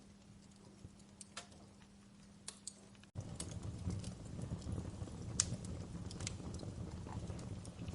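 Wood fire in a fireplace crackling, with sparse sharp pops and snaps. About three seconds in, the sound cuts abruptly to a louder take in which the low rush of the burning logs is much stronger and the pops come more often.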